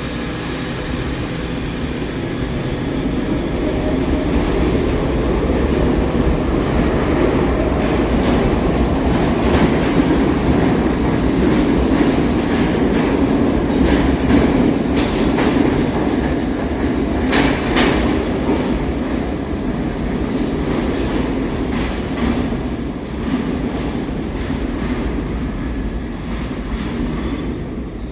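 New York City subway train of older SMEE cars running along the track: a steady rumble of wheels on rail that swells through the middle, with a short burst of wheel clatter and screech about seventeen seconds in.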